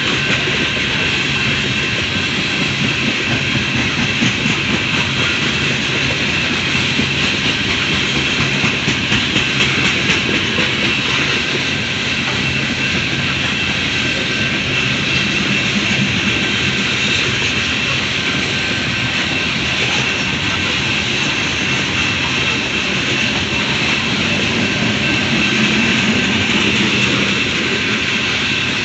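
Loaded coal train's cars rolling past steadily. The wheels clack rhythmically over rail joints, over a continuous rumble and a steady high-pitched ringing.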